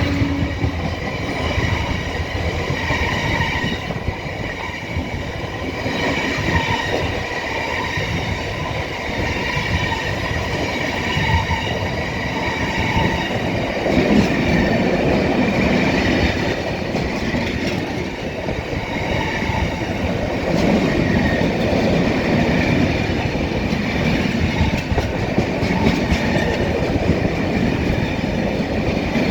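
Loaded freight train of tank wagons rolling steadily past, wheels clacking over rail joints, with a faint high squeal from the wheels on the rails.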